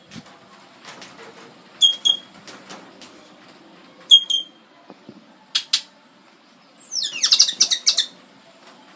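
A black bird calling at close range: short high whistled notes in quick pairs, twice, then two sharp clicks, then a loud harsh rattling call lasting about a second near the end.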